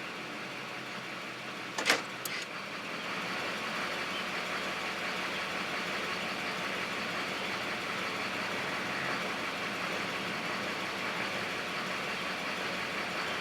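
2004 GMC's 6.6-litre Duramax V8 turbo-diesel idling, with two short clicks about two seconds in as it is put into gear. It then idles a little louder in drive, chugging slightly in between: a rough idle with a slight shudder.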